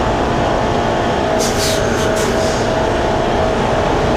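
Semi truck's diesel engine running steadily as the tractor-trailer reverses, with a faint steady whine over it. Two short hisses come near the middle.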